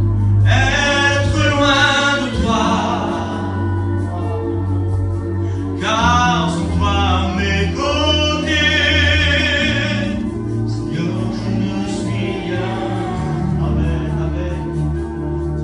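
A worship song in French: singing in phrases with pauses between them, over steady held low chords from the accompaniment.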